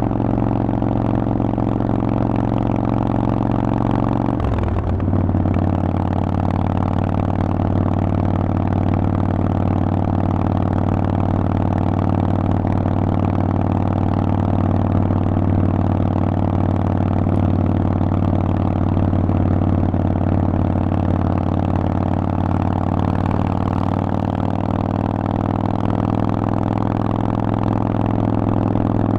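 Harley-Davidson Forty-Eight's air-cooled V-twin running through a Vance & Hines aftermarket exhaust while riding. About four seconds in, the engine pitch drops sharply, then holds steady.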